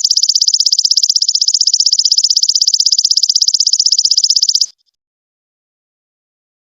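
Golden locust (belalang emas) calling: a fast, even, high-pitched trill of rapid pulses that stops abruptly about two thirds of the way in.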